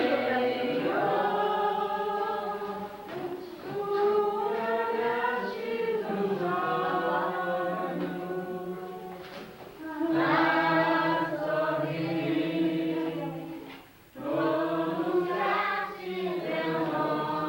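A group of people singing a religious hymn together in long held phrases, with a brief pause between phrases about fourteen seconds in.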